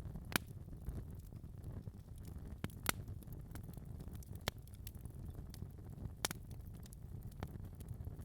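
Fire crackling in a fireplace: a steady low rumble of flames with irregular sharp pops, roughly one a second.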